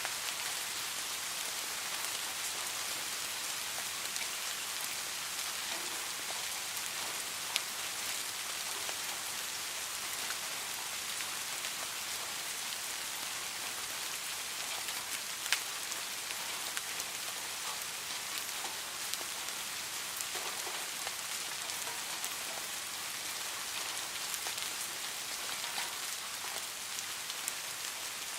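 Steady rain falling, an even hiss without let-up, with a few sharp single ticks standing out, the clearest about a third and halfway through.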